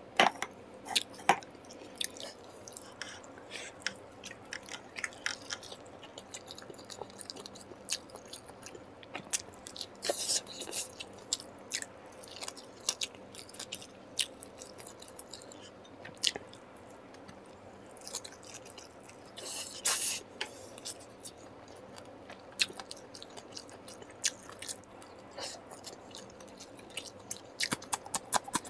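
Close-up eating sounds: a man chewing and biting through curry, meat and rice with wet mouth smacks and irregular crunches, a few louder ones around ten and twenty seconds in.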